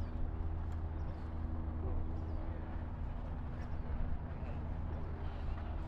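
A steady low mechanical hum, like an engine or motor running, under the indistinct murmur of voices of people walking about; a higher steady tone in the hum fades out about halfway through.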